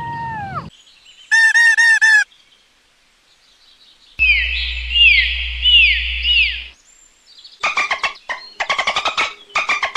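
Dolphins calling: a run of short, repeated falling whistles, then rapid pulsed squawks and clicks near the end. Before them, a fox's long held howl dies away under a second in, followed by a short warbling call.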